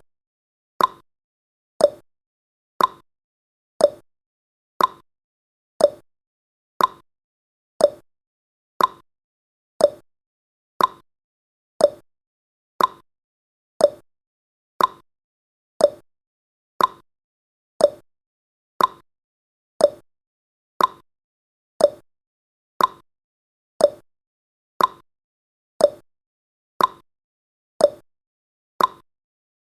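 Clock tick-tock sound effect: one short tick every second, alternating between a higher and a lower click.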